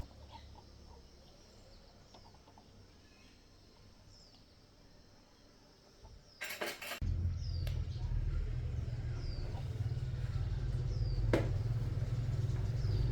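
A few sharp clatters, then a low, steady motor or engine hum starts about seven seconds in and keeps running. Small birds chirp repeatedly in the background throughout.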